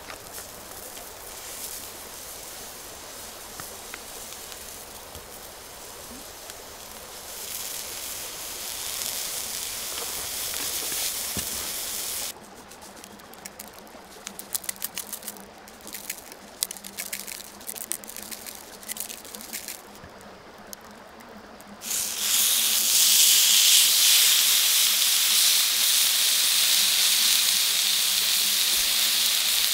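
Food sizzling on a hot griddle plate over a campfire. First a sausage frying, then a quieter stretch with small clicks and taps. About two-thirds of the way in, a raw beef steak goes onto the hot plate and the sizzle turns suddenly much louder and stays steady.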